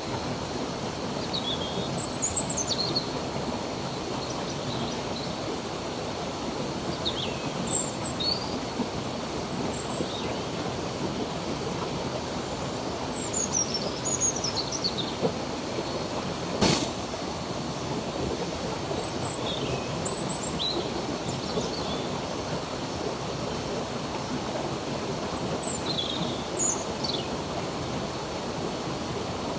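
Steady rush of a flowing stream, with birds chirping in short, high, falling calls every few seconds over it. One sharp click about two-thirds of the way in.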